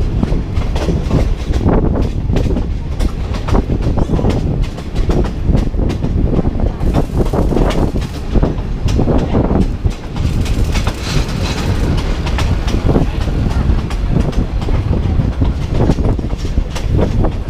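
Passenger train running on the rails: a steady low rumble with irregular clanks and the clickety-clack of the wheels.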